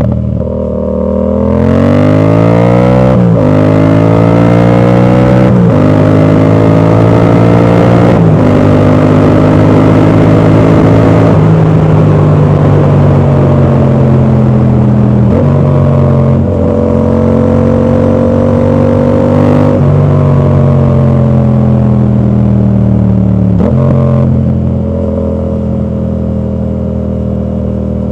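Yamaha MT-07's 689 cc parallel-twin running through an exhaust with its dB killer fitted, accelerating hard: the engine note climbs and drops back at each upshift four or five times. It then holds a steadier note and backs off, a little quieter, near the end.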